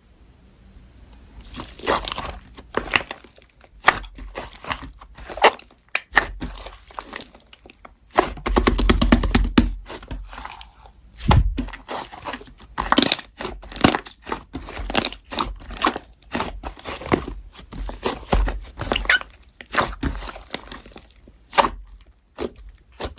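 Slime being squeezed, pressed and stretched by hand, giving a dense run of irregular crackles, pops and squelches.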